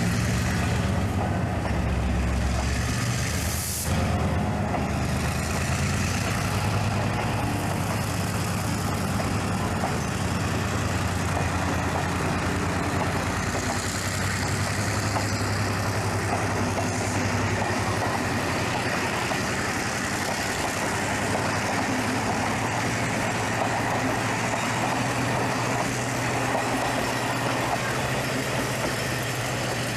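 Diesel train running: a steady low engine drone under a continuous rumble and hiss, with a brief break about four seconds in.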